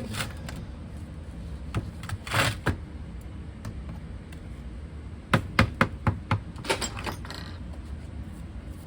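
Scattered knocks and metallic clinks as freshly cast copper pieces are knocked and taken out of their molds. A few come in the first three seconds, then a quick run of them from about five to seven and a half seconds in.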